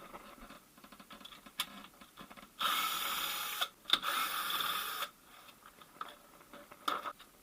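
A hand-held power tool runs in two bursts of about a second each, with small knocks and clicks from work on car fasteners between them.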